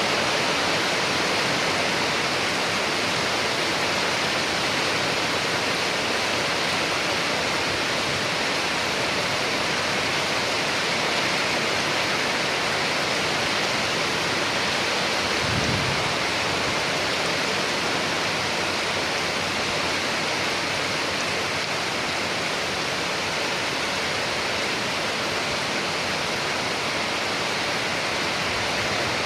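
Steady rain falling, an even hiss with no break in level. A brief low thud about halfway through.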